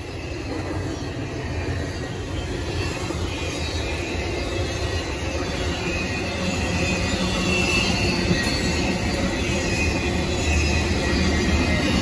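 Double-stack intermodal freight cars, loaded with containers, rolling past on the rails: a steady rumble and clatter of wheels on track that grows slowly louder, with a thin high wheel squeal in the middle.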